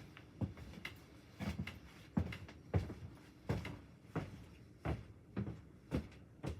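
A series of short, irregular knocks and thumps, about one every half second.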